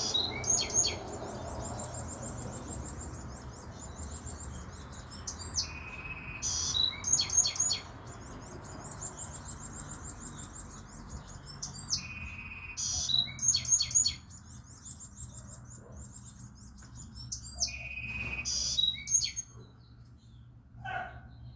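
A small songbird sings the same song over and over, about once every six seconds. Each song opens with a short steady note and breaks into rapid, high twittering trills.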